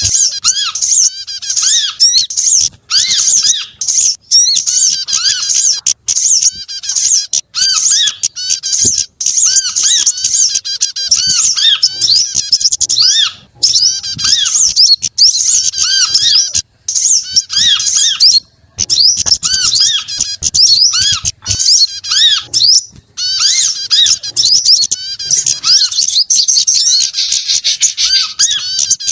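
A dense, unbroken mix of small songbirds calling at once, as used in a bird-luring recording: rapid high chirping and chattering, with short rising-and-falling notes repeating about twice a second underneath.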